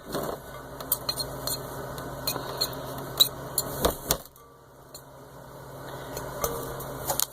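A fork clinking and scraping against a glass bowl as ramen noodles are stirred, with scattered light ticks and a louder knock about four seconds in.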